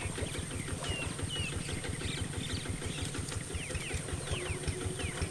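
Small birds chirping, many short gliding calls, over a fast, even low throb like a motor running, with a steady high whine above.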